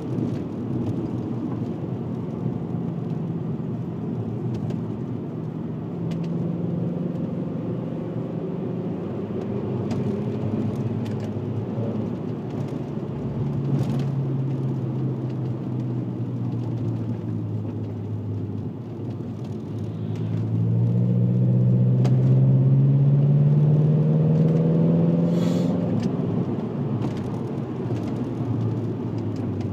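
VW Passat W8's 4.0-litre W8 engine and custom stainless exhaust, with twin rear mufflers and the centre silencer deleted, running on the move under light throttle. About two thirds through it pulls harder, the note rising and getting louder for a few seconds, then settles back near the end.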